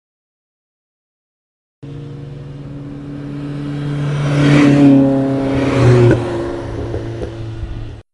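Honda Integra Type R (DC2) on a race track, its 1.8-litre VTEC four-cylinder engine running hard as the car drives by. The sound comes in suddenly about two seconds in, grows louder to two peaks around five and six seconds in, then eases off and cuts off abruptly near the end.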